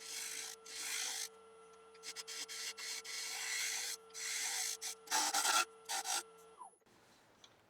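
Wood lathe running with a turning tool cutting a spinning black locust bowl blank, a series of about six rasping cuts over the steady hum of the lathe motor. The motor hum stops near the end as the lathe is switched off.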